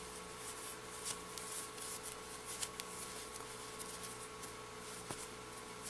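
Faint rustling and light clicks of doll pyjamas being handled and put on, over a steady low electrical hum.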